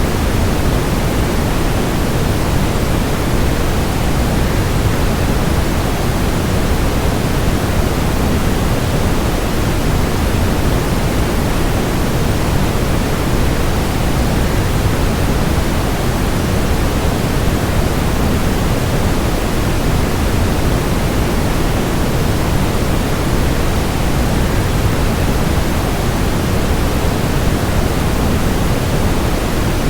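Waterfall, a steady rush of falling water with most of its weight in the low end and no change in level.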